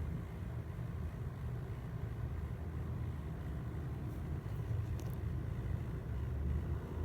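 Low, steady rumble, with a faint click about five seconds in.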